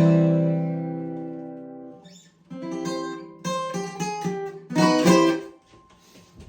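Acoustic guitar: a strummed chord rings out and fades over about two seconds, followed by a few short plucked notes and strummed chords, and the playing stops near the end.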